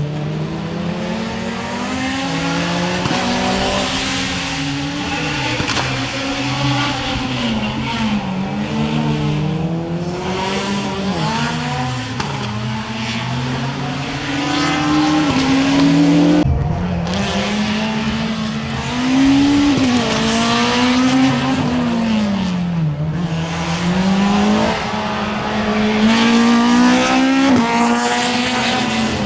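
Rally car engine driven hard, its pitch climbing and dropping again and again as the driver shifts gears and lifts off for corners. About halfway through, the sound breaks off abruptly and picks up again at high revs.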